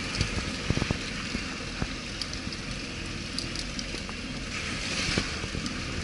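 Off-road vehicle driving over a rough track: a steady rumble and road noise, with scattered knocks and rattles throughout.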